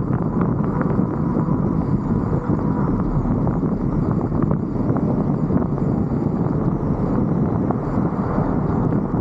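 Steady rush of wind and road noise buffeting a roof-mounted camera on a moving vehicle, with scattered faint ticks.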